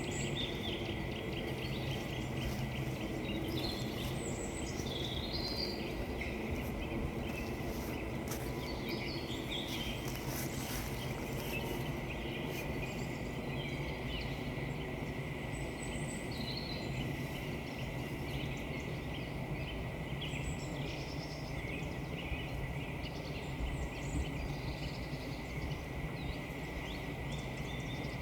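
Small woodland birds chirping and calling on and off over a steady low background noise, with soft crunching footsteps on frozen ground now and then.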